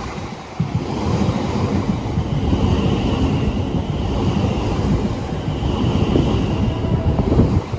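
A train running past at close range, a loud rumble with wind buffeting the microphone. A faint high whine rises over it about two seconds in and fades near the end.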